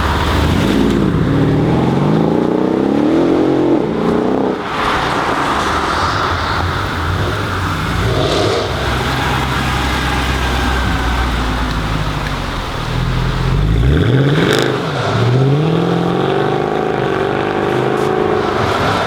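Loud Mercedes-AMG car engine and exhaust revving again and again, the pitch climbing and dropping in several sweeps, with one sharp crack about three quarters of the way through.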